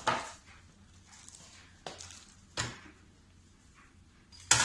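Handling noise from a cordless miter saw being worked over by hand: four separate sharp knocks and clicks, the loudest near the end.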